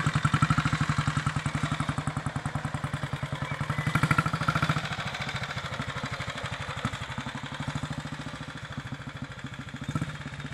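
1943 Ariel W/NG's 350 cc single-cylinder four-stroke engine running on the road in a steady beat of firing pulses, swelling briefly about four seconds in and then gradually getting fainter.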